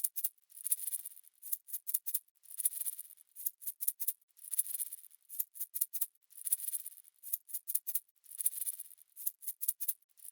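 Rhythmic shaker-like rattling: a hissing swell about every two seconds with quick sharp clicks between, all high-pitched with no low sound underneath.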